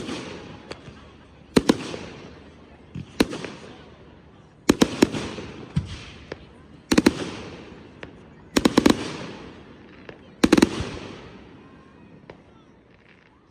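Consumer fireworks bursting in the sky: sharp bangs every second and a half to two seconds, some coming two or three at once, each trailing off in a fading crackle. The bursts stop near the end.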